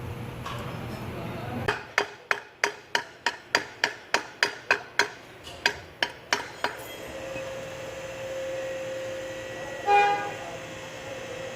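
Hammer striking metal: about fifteen quick blows, roughly three a second, each ringing briefly. Then a steady hum, and a short, loud tone near the end.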